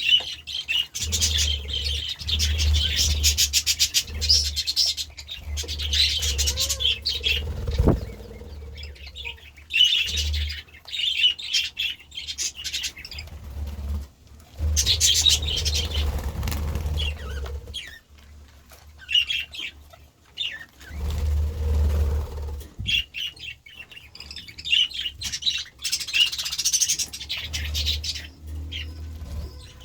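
Budgerigars chirping and chattering in bursts, several birds at once, with short pauses between the bursts.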